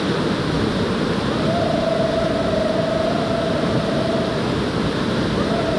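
Waterfall water rushing with a steady, loud roar. A single steady tone sounds over it for about three seconds from about one and a half seconds in, and again briefly near the end.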